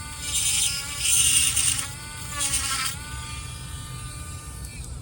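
Dremel rotary tool grinding into the plastic body of a scale model kit. It runs with a steady high whine, with three loud grinding stretches in the first three seconds as the bit bites into the plastic, then runs lighter.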